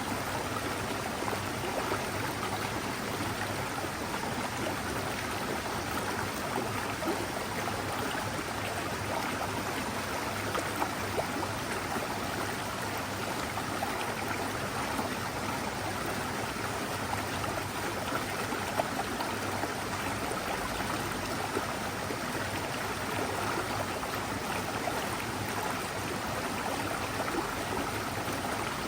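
Mountain forest stream running steadily: an even, unbroken rush of flowing water.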